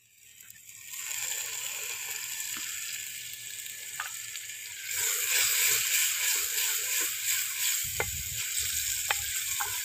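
Sliced tomatoes hitting hot ghee and fried onions in a clay cooking pot, sizzling. The sizzle builds over the first second and grows louder about halfway through. A few light clicks come from a wooden spoon stirring against the pot near the end.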